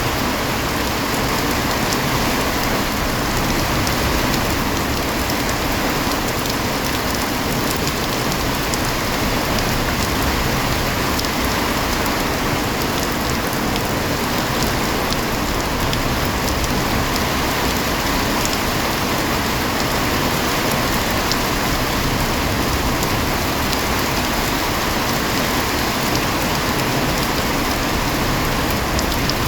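Heavy rain falling steadily: a dense, even hiss with many small drop impacts ticking through it.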